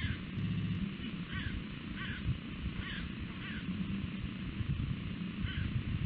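A bird calling repeatedly in short descending calls, about one a second, over a steady low rumble.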